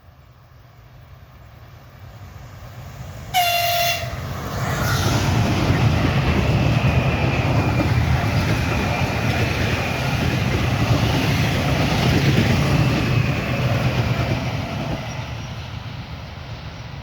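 A train approaches and gives one short horn blast about three seconds in, then passes close by with a loud rumble of wheels on rails that fades near the end.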